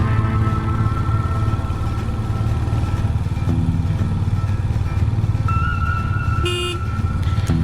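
Royal Enfield Hunter 350's single-cylinder engine running steadily under way, with a short horn toot about six and a half seconds in.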